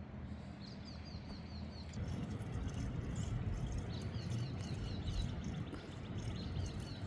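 A bird singing two runs of quick, high, repeated down-slurred chirps, about five a second, with a steady outdoor noise underneath.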